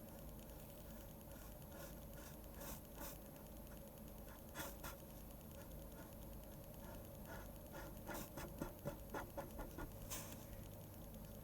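Faint scratching strokes of drawing on paper. A few separate strokes come early, then a quick run of about nine short strokes near the end.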